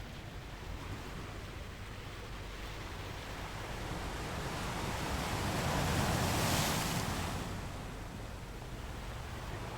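Sea surf washing steadily, with one wave swelling and breaking about six seconds in, then settling back.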